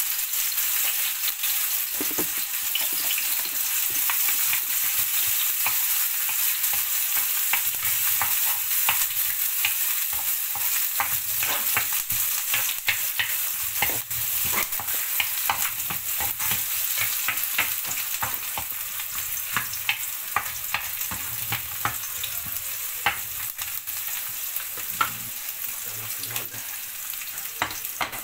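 Chopped onion and bell pepper sizzling in hot olive oil in a frying pan, a steady hiss full of crackles and pops, with a spoon stirring through it. The sizzle eases a little near the end.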